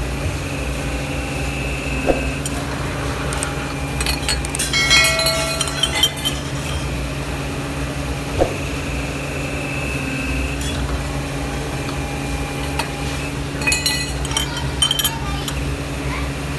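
Steady hum of workshop machinery, with metal parts clinking and ringing against each other a few times, loudest in a cluster about five seconds in and again near the end.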